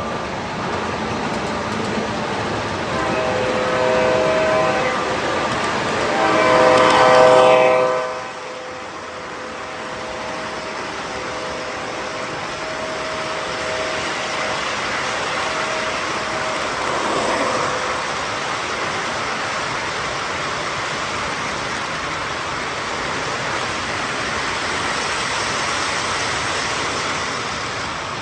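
Model diesel locomotive's sound-equipped horn blowing for several seconds, loudest just before it cuts off about 8 seconds in. After that comes a steady running noise from the train.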